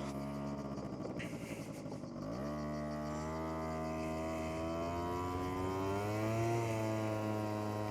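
SYM Jet2 50 scooter's 50 cc two-stroke single on a sport exhaust, running at a steady low speed, then opening up about two seconds in and pulling away with a slowly rising pitch that eases slightly near the end.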